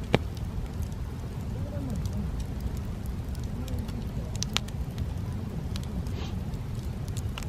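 Wood campfire burning: scattered crackles and a few sharp pops, the loudest one just after the start and another about four and a half seconds in, over a steady low rumble.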